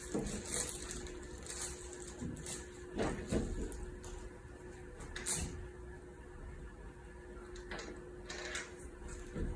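Faint scattered knocks and scuffs over a steady low hum.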